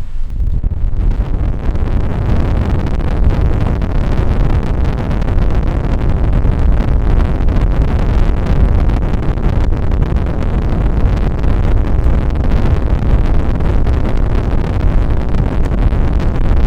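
Strong wind buffeting the microphone: a loud, steady, low rumble that fills in about a second in.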